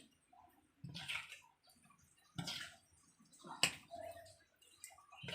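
Chicken pieces being stirred in a wet flour-and-cornstarch batter in a bowl: a few separate wet slaps and clicks, roughly a second apart.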